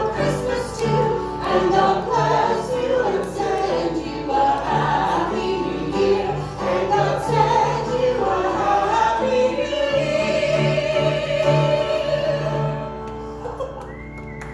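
Several voices singing a Christmas carol together over a musical accompaniment, ending on a long held note that fades away near the end.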